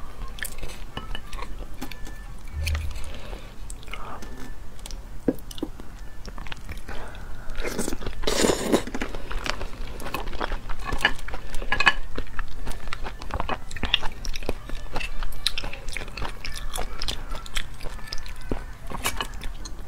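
Close-miked wet chewing and mouth clicks of someone eating raw oysters, with many sharp little clicks throughout and a louder, longer noisy stretch about eight seconds in.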